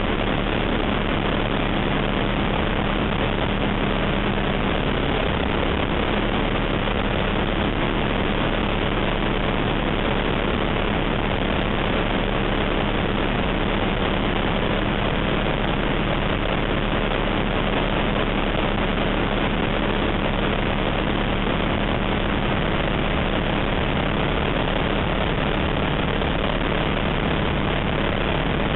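ATEC Zephyr ultralight's piston engine and propeller running steadily, a constant drone with a steady low hum and a rush of noise that does not change.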